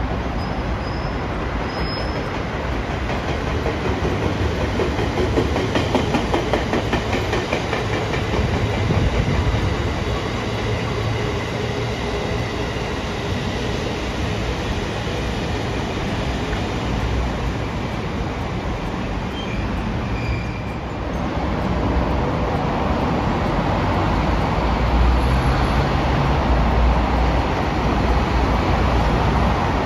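A train running on the tracks: a steady rumble with a faint whine through the first half. A little past two-thirds through, the sound shifts to a heavier low rumble.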